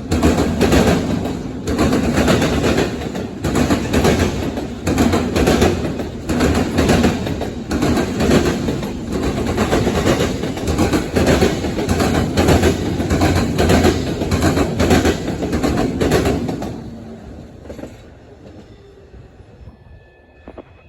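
Norfolk Southern train's cars rolling past, the wheels clacking over rail joints amid steady rumbling. The noise drops away about three quarters of the way through as the end of the train passes.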